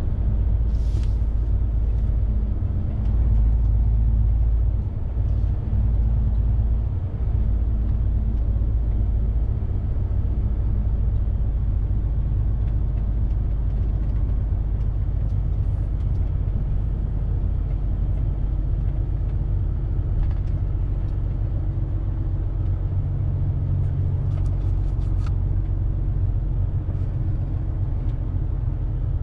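Semi-truck's diesel engine and road rumble heard from inside the cab while driving, a steady low drone with a few faint clicks.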